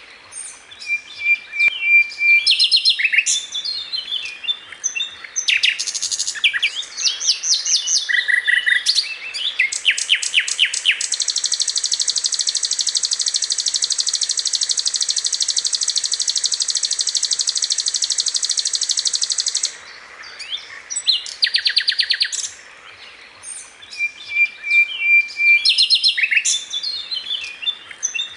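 Sikatan londo songbird recording: quick high chirps, short whistled notes and rapid note runs, then one long even buzzing trill of about eight seconds, after which the chirping resumes. The opening phrases come round again near the end, as in a looped training recording for caged songbirds.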